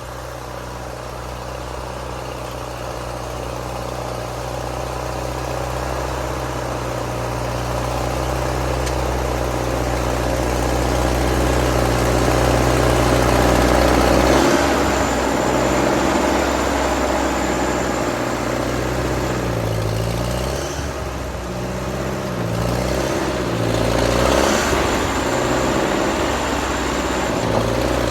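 Ford half-track tractor's engine running, steady and growing louder over the first half, then its speed rising and falling again and again from about halfway through as it works.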